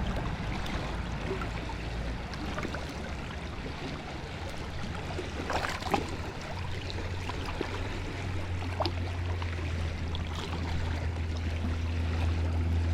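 River water running steadily over a shallow stretch, with wind rumbling on the microphone that grows stronger in the second half. A few faint clicks sound about halfway through.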